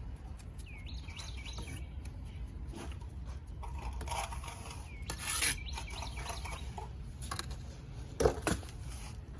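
A hand tool scraping and rubbing on fresh stucco, in intermittent strokes, with the sharpest scrapes about five and eight seconds in. A few faint bird chirps can be heard.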